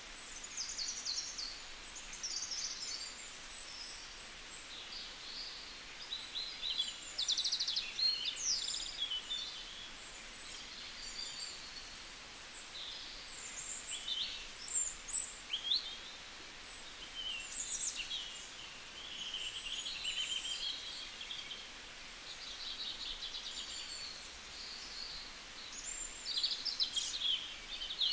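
Birds chirping and twittering on and off, with short calls, quick sweeps and trills, over a faint steady hiss.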